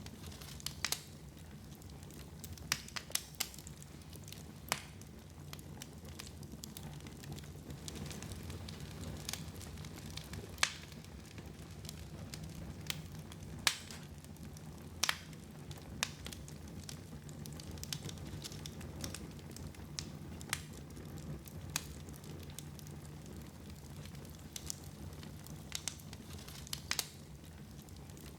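Wood fire burning in a fireplace: irregular sharp crackles and pops, a few every second or two, over a steady low rumble.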